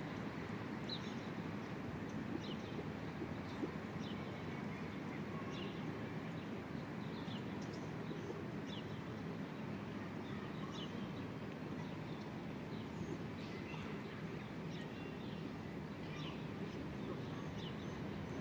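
Small birds chirping intermittently in short high notes over a steady low background hum of outdoor ambience.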